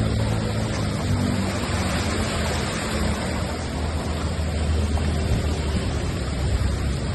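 A motor vehicle's engine running with a low steady hum under a steady hiss of water and road noise.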